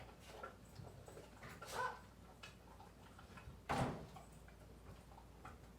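Scattered light clicks and taps of things being handled while cat food is set out, with one sharper knock about four seconds in.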